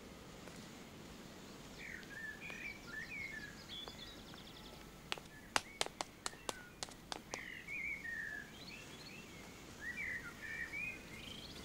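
Songbirds chirping and twittering in short gliding phrases, with a quick run of sharp clicks about halfway through.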